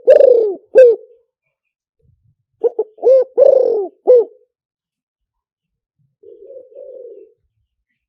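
Spotted dove cooing: a phrase of short coos ending in a longer falling coo, repeated about three seconds later. A much fainter low coo follows near the end.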